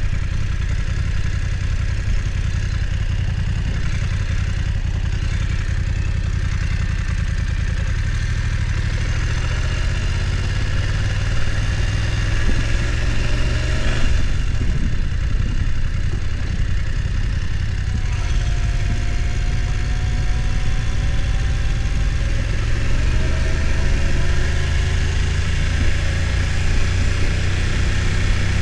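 BMW F900 XR motorcycle's parallel-twin engine running at low revs, the revs rising and easing off now and then.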